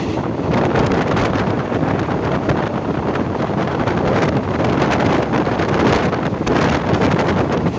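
Wind buffeting the microphone over the steady running noise of a moving passenger train, with irregular knocks and clatter.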